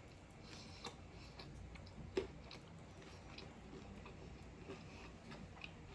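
Quiet chewing of a chicken Caesar wrap: faint, scattered mouth clicks, one a little louder about two seconds in.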